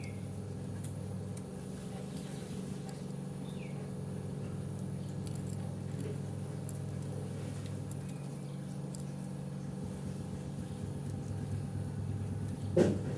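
A steady low machine hum, with faint small-bird chirps now and then and a single sharp knock near the end.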